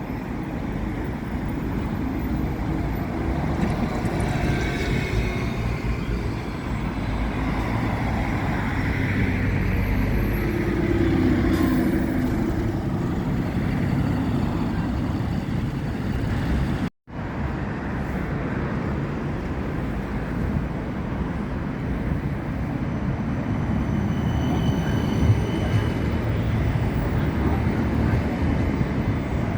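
Road traffic at a street stop: vehicle engines and tyre noise in a steady low rumble, with a passing vehicle's rising and falling tone in the first third. The sound cuts out for an instant a little past halfway.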